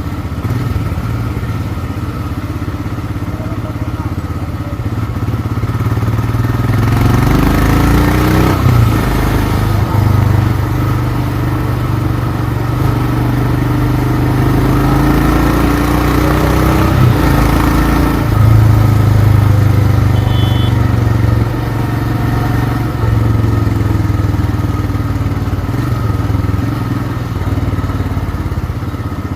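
Royal Enfield Himalayan's single-cylinder engine running while the bike is ridden, its note stepping up and down with throttle and gear changes. A rushing noise swells over the engine through the middle stretch.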